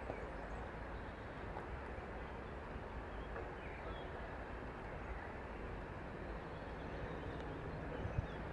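Low steady background rumble with a few faint bird chirps; no distinct event.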